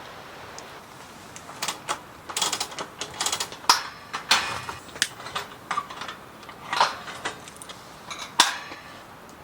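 Camping gear being handled by hand: a run of irregular clicks, clatters and short rustles over a steady background hiss.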